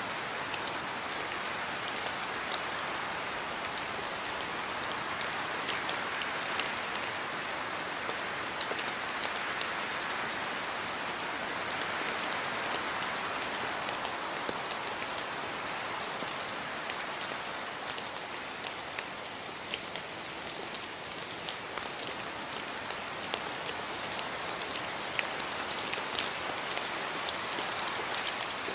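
Steady rain falling, a constant hiss dotted with many sharp clicks of individual drops striking a surface.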